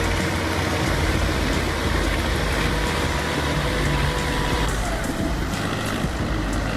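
Heavy truck engine running steadily under a dense, continuous rumble of vehicle noise.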